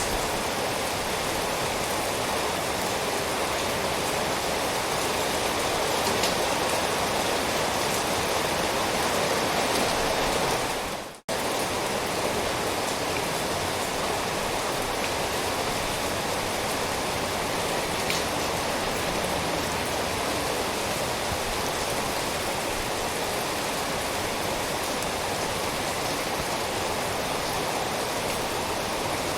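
Steady, heavy rain falling as a dense, even hiss. About eleven seconds in it fades away for a split second, almost to silence, then cuts straight back in.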